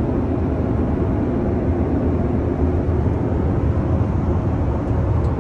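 Steady low rumble and hiss of a Boeing 777-300ER's cabin noise in cruise flight, heard from inside a lavatory.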